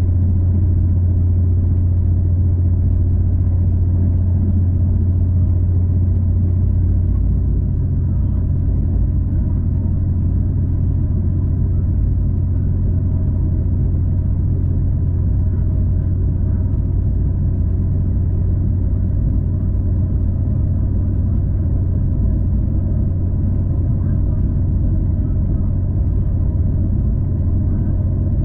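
Steady low rumble of a V/Line passenger train running, heard from inside the carriage, easing slightly about seven seconds in.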